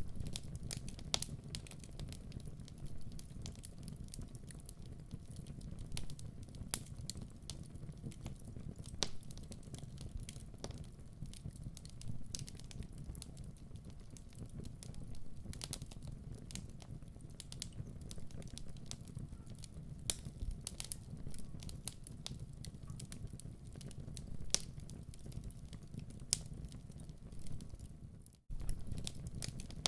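Wood fire crackling in a fireplace: irregular sharp pops and snaps over a steady low rumble of the flames. The sound drops out suddenly for a moment near the end, then resumes.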